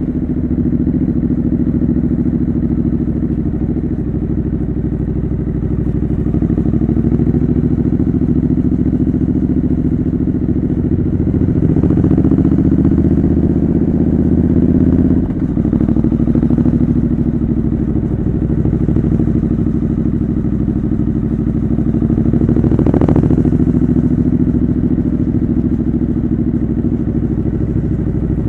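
Triumph Scrambler 900 parallel-twin running through a homemade exhaust while riding. The engine note climbs slightly, then drops abruptly about halfway through and settles back to a steady run, with wind buffeting the microphone.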